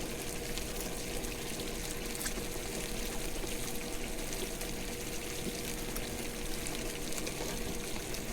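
Sausage, peppers, onions and pineapple in a soy-pineapple sauce cooking in a skillet: a steady sizzle with fine crackles as the sauce simmers and reduces.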